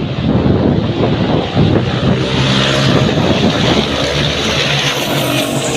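Racing trucks' engines running hard on the track, a steady engine note with overtones.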